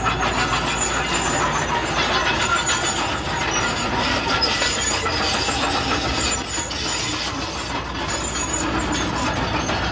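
Komatsu D31PX crawler bulldozer working: its diesel engine runs under a dense, steady clatter from the machine.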